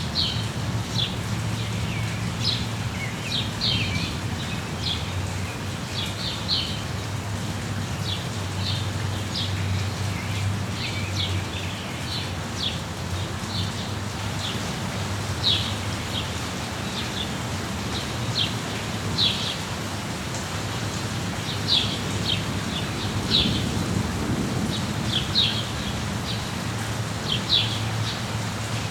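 Steady rain with a low rumble underneath, and small birds chirping in short, high calls scattered throughout.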